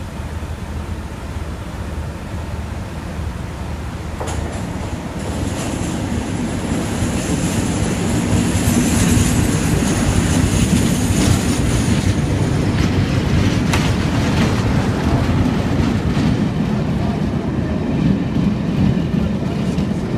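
A diesel locomotive hauls a rake of passenger coaches past a platform, engine running and wheels rumbling on the rails. It grows louder from about four seconds in, with a high wheel squeal from about five seconds that fades after about twelve.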